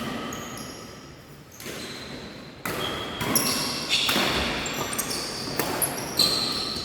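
Badminton play in a sports hall: court shoes squeaking on the floor, mixed with the sharp strikes of rackets hitting the shuttlecock. It goes quieter for a moment in the first two seconds, then the squeaks and hits pick up again.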